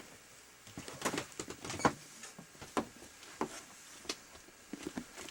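Footsteps and light knocks in a small room, irregular and about one a second.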